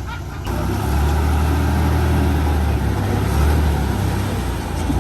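Heavy diesel engine of a construction machine running, a loud steady low hum that comes in suddenly about half a second in.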